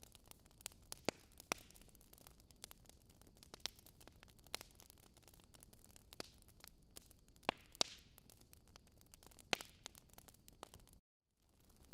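Wood fire in a fireplace crackling: burning logs giving irregular sharp pops and snaps over a faint hiss, a few of them much louder. The sound cuts out for a moment near the end.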